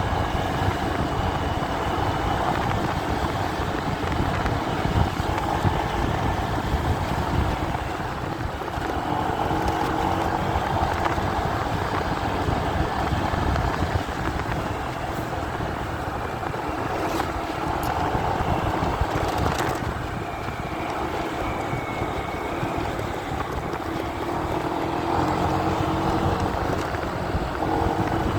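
Muffled riding noise of a motorcycle picked up by a phone carried in a pocket: steady wind and road rumble, with a faint engine note wavering underneath.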